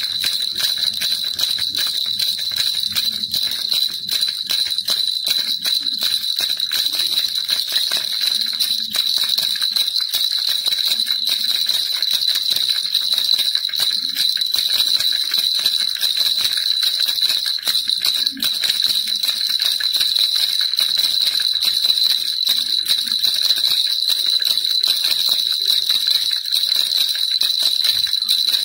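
Baby rattle shaken continuously: a dense, even jingling of many small clicks over a steady high ringing tone.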